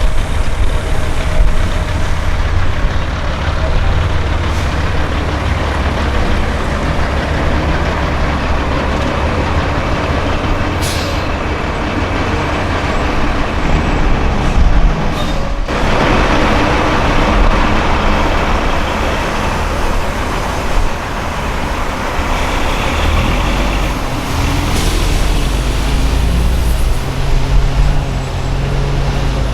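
Semi trucks' diesel engines running as the trucks drive by, a heavy rumble throughout. A brief hiss of air comes about halfway through, and a sudden broad rush of noise begins just after it.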